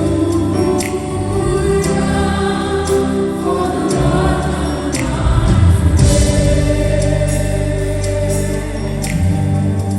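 Live gospel worship music: a choir singing sustained, held notes over a band, with a steady beat.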